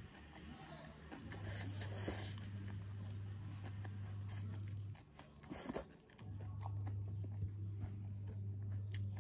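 Close-miked eating sounds: chewing boiled yam and leafy greens, with wet mouth clicks and a couple of louder bites, over a steady low hum that cuts out briefly twice.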